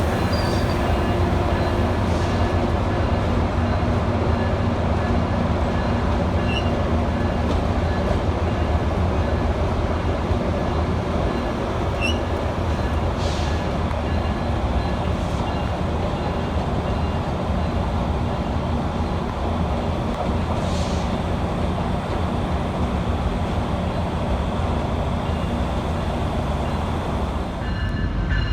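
Passenger train at a station platform: a steady low rumble and hum, with a few faint brief squeaks.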